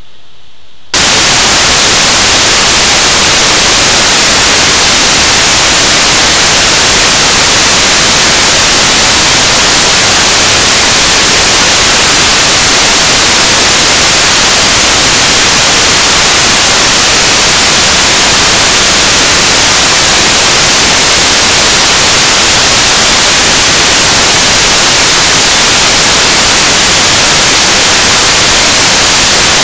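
Loud, steady static hiss that cuts in suddenly about a second in and holds unchanged throughout, with no rhythm or change in pitch.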